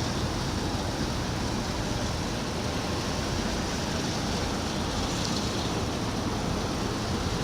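Steady rushing noise of wind and sea water, with no distinct events.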